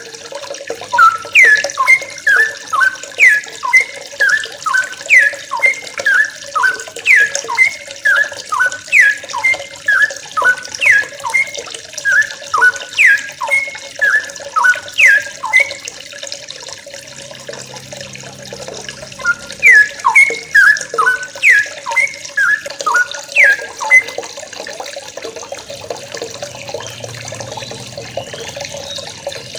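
Yellow-vented bulbuls (trucukan) calling over and over in short, steeply falling notes, about one phrase a second. The calling pauses about halfway through and again for the last few seconds.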